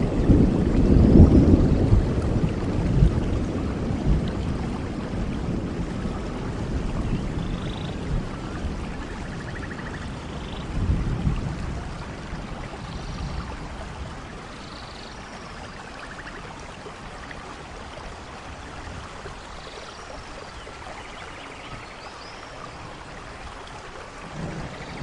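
Steady rain falling, with a low roll of thunder that is loudest at the start and fades away over about ten seconds, then a new rumble building near the end.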